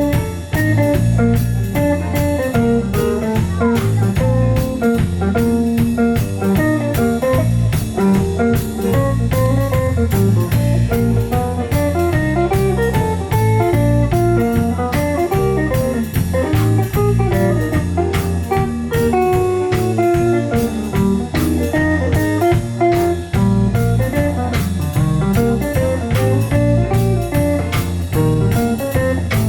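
Instrumental band music in a blues-jazz style: a guitar playing a busy melodic line over bass guitar and a steady drum-kit beat.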